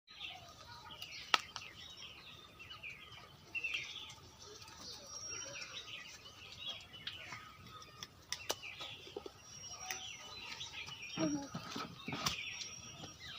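Small birds chirping and twittering, with a few sharp clicks, the loudest about a second in.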